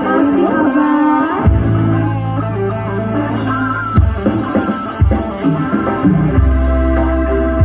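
Music with guitar and drums played loud through a Rockley 15-inch active speaker, with heavy bass notes that come in about a second and a half in and again near the end.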